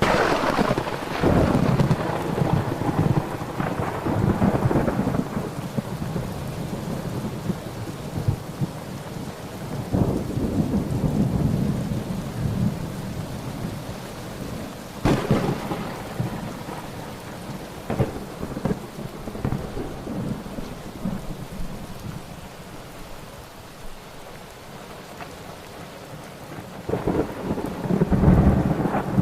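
Thunderstorm: steady rain falling, with rolls of thunder. A loud rumble starts at once, a smaller one follows about ten seconds in, a sharp crack comes about halfway through, and another rumble builds near the end.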